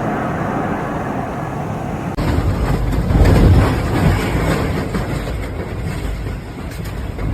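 Roar of a flash flood's rushing water, a steady rush that changes abruptly about two seconds in to a louder, deeper rumble that swells and then eases.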